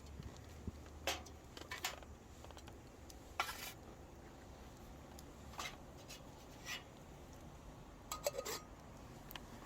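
Light metal clinks and scrapes of camp cookware being handled, a handful of separate knocks spread out, the sharpest a little after three seconds in and a short ringing clink near the end.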